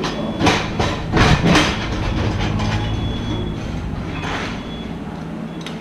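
Mini excavator's diesel engine running steadily under work. Several short, harsh scraping or clanking noises come in the first two seconds, and another comes about four seconds in.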